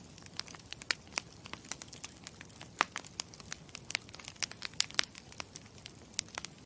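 Campfire crackling: irregular sharp pops and snaps over a low steady hiss, cutting off suddenly near the end.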